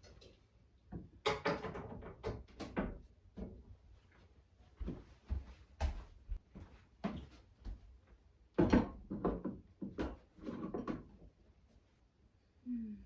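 Irregular knocks, clicks and clatter, with busier stretches about a second in and again after about eight seconds, like things being handled and moved about in a small room.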